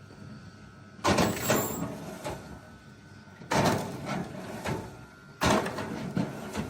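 Hydraulic log splitter splitting logs: three sudden loud cracks of wood, each trailing into a clatter of split pieces, about two seconds apart.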